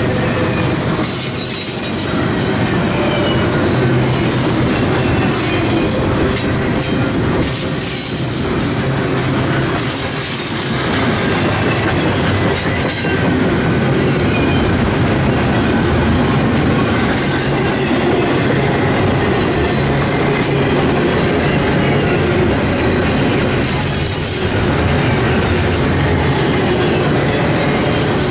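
Double-stack container well cars of a freight train rolling past: a steady, loud rumble and clatter of steel wheels on the rails, dipping briefly a few times.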